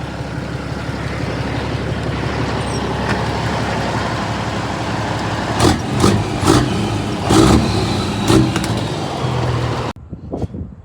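Semi truck's Caterpillar C15 diesel engine idling steadily, then revved in several short throttle blips from about halfway through. The engine sound cuts off suddenly near the end.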